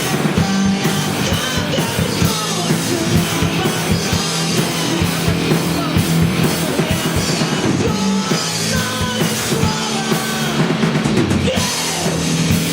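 Live rock band playing at full volume, with a drum kit keeping a steady beat under melodic lines that glide in pitch.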